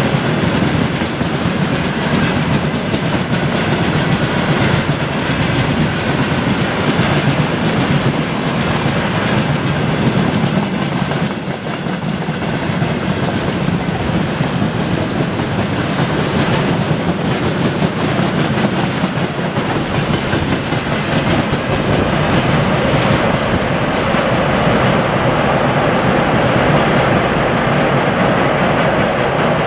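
Freight train wagons rolling past at speed, their wheels clattering over the rail joints in a steady run of clicks over the rumble of the train.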